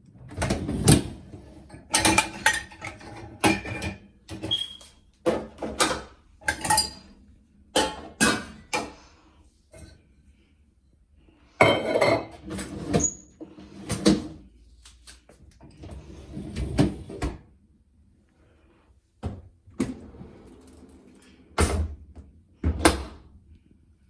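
Crockery and cutlery clinking and knocking as dishes are loaded into a dishwasher's racks, in a string of irregular clatters with short pauses.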